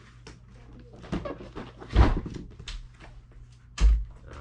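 Handling of a cardboard product box, with light rustling and two dull thumps, one about two seconds in and one near the end.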